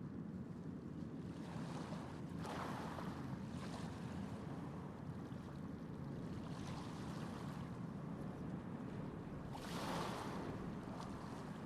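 Steady low rumble of a large passenger ship coming alongside the quay, with two brief swells of hiss, about two and a half seconds in and again near the end.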